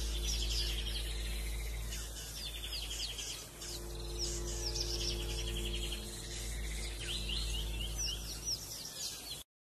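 Birds chirping: repeated quick downward chirps and buzzy trills over a low steady hum. It cuts off suddenly near the end.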